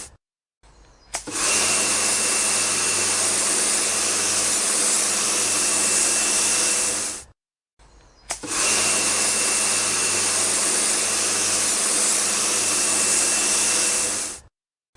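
A small electric motor running steadily with a strong hiss, in two stretches of about six seconds each that start and stop abruptly.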